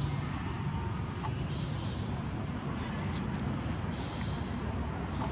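A bird chirping repeatedly, short high falling notes about once a second, over a steady low rumble.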